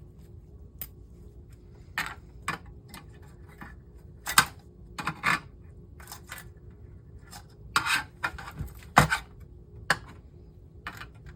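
Irregular clinks, knocks and short scrapes of hand tools and metal parts being handled while a monitor is taken apart, about a dozen sharp hits spread unevenly, with the loudest near the middle and about two-thirds of the way in.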